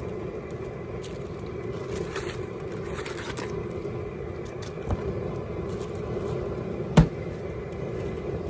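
Propane burner turned up to high flame under the boil pot, running with a steady rushing noise while it brings the water back to a boil. A single sharp knock sounds about seven seconds in.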